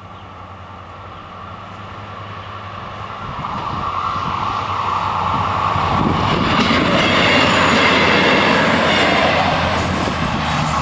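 An SNCB class 41 (MW41) diesel multiple unit passing over the level crossing. Its engine and wheel-on-rail noise grow steadily louder to a peak about eight seconds in, with a thin high wheel squeal in the second half, then ease off a little.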